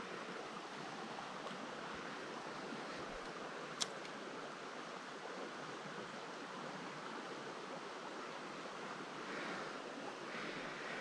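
Steady rush of a flowing trout creek, heard while standing in the water, with one sharp click about four seconds in.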